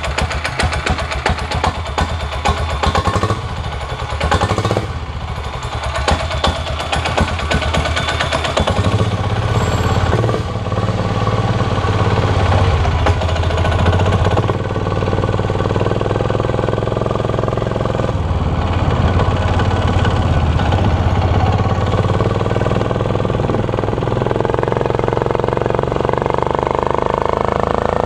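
12 hp air-cooled diesel engine on a minibike, running with a rapid even knock, then revving up and pulling under load about nine seconds in, its pitch climbing again near the end. The exhaust goes through a muffler with no packing inside.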